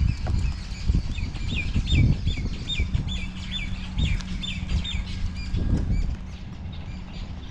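A bird calling a quick series of about a dozen short, repeated chirps, roughly three a second, starting about a second in and stopping near the five-second mark. Irregular low thumps and a steady low hum run underneath.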